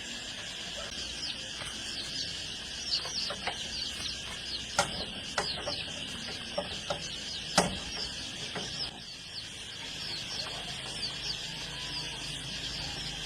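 Chickens clucking, with many short high chirps of chicks peeping, over a steady high hiss. A few sharp knocks sound in the middle, the loudest just past halfway.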